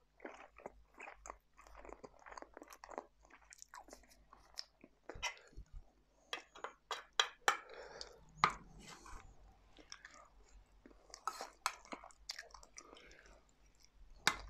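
A person chewing food with the mouth close to the microphone. A metal spoon clicks and scrapes against a metal serving dish at irregular moments, loudest around the middle.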